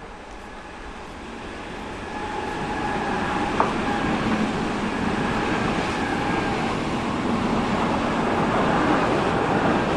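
A train approaching, growing louder over the first three seconds and then running steadily close by, with a faint steady whine and a single sharp click about three and a half seconds in.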